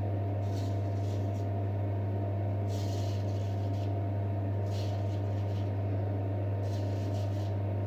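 J. Nowill & Sons straight razor scraping through a two-week-old beard in about five short strokes, the clearest about three seconds in, faint against a steady low hum.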